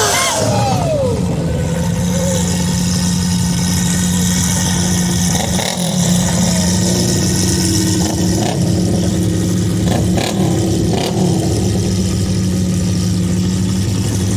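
A car engine idling at a steady pitch, with a few short clicks about midway.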